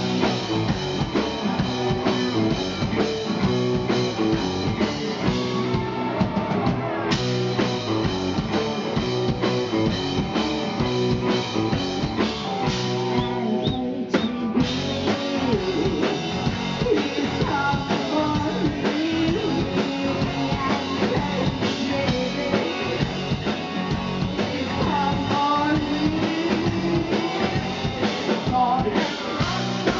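Live rock band playing: drum kit, electric guitar and a singing voice, loud and continuous, with a momentary break in the high end near the middle.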